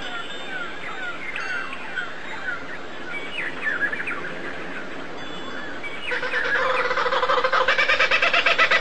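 Small birds chirping in short, quick, falling notes. About six seconds in, a louder, rapidly pulsing call with a steady pitch takes over.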